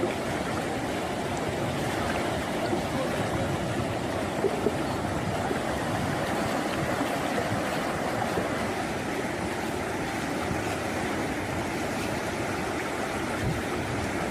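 Steady rushing of flowing floodwater, an even noise with no breaks.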